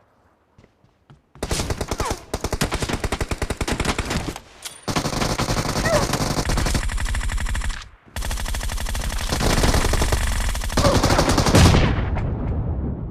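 Video game automatic gunfire: rapid, dense machine-gun fire starting about a second and a half in, breaking off briefly about eight seconds in, then resuming and fading near the end.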